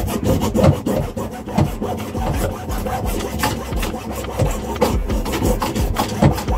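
A hand tool rasping back and forth against an old pipe fitting glued tight in the boat's plumbing, a few strokes a second, as it is cut or stripped free.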